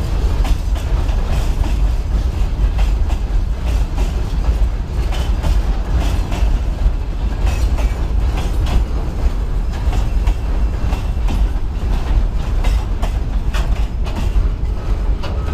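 Freight train's loaded gondola wagons rolling past close by, with a steady heavy rumble and wheels clattering irregularly over the rail joints.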